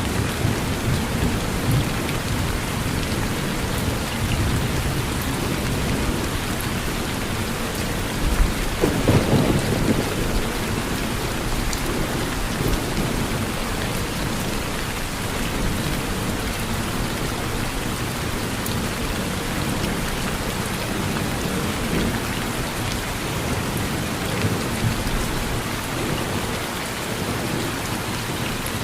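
Steady heavy rain with low thunder rumbling underneath. A louder roll of thunder swells about nine seconds in.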